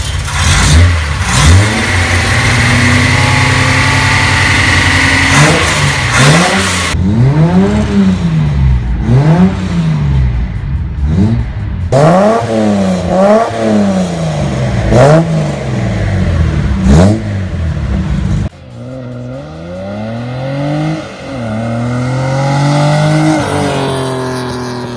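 Datsun 240Z's L24 straight-six engine revving. It is held high at first, then blipped up and down about once a second, then after a sudden cut it is revved again more slowly and softly.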